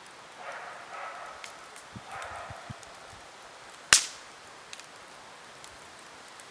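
Wood campfire crackling with small scattered ticks and one loud, sharp pop about four seconds in.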